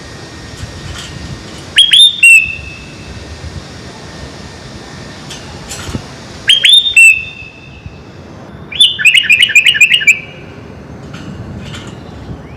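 Sooty-headed bulbul (kutilang) singing in loud, clear whistled phrases. There is a short phrase about two seconds in, another at about six and a half seconds, then a quick run of rapid notes around nine to ten seconds, over a steady background hiss.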